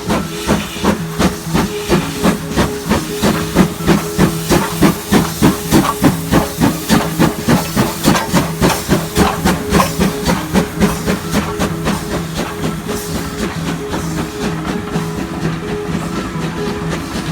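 Steam tank locomotive working hard, its exhaust chuffing in even beats about three a second, with steam hiss. The beats are loudest in the middle and ease into a steadier running sound for the last few seconds.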